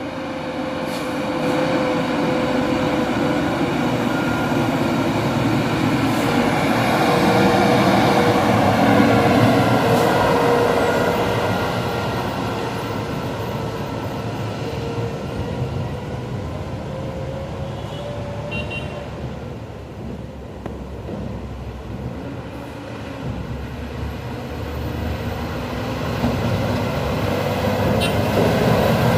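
Heavily loaded dump truck's diesel engine running as it passes, growing louder to a peak about a third of the way in and then fading, with another truck coming up louder near the end.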